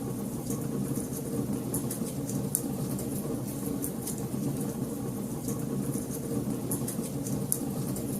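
Wood fire burning in a fireplace: a steady low rush of flames with irregular small crackles and pops scattered throughout.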